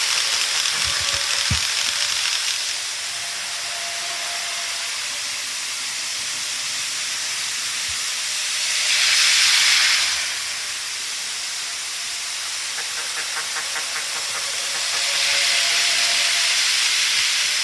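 Model train running on its track: a steady hissing rattle of small wheels on rails with a faint motor whine, swelling three times as the train passes close, loudest about ten seconds in.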